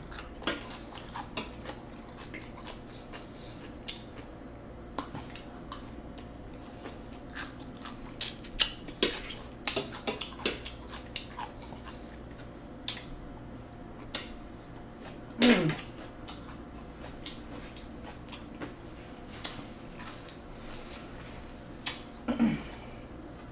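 Close-up eating sounds of spicy noodles and enoki mushrooms being chewed, with many short wet mouth clicks. Twice, about halfway through and near the end, a short hummed "mm" falls in pitch.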